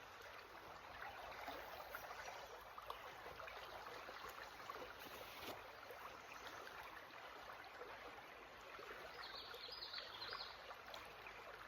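Water of a small creek running and trickling steadily, faint. A brief burst of high chirping comes about nine seconds in.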